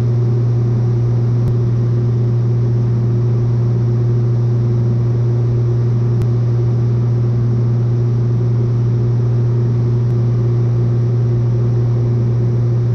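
Cessna 182's piston engine and propeller droning steadily in level cruise, a constant low hum with no change in pitch.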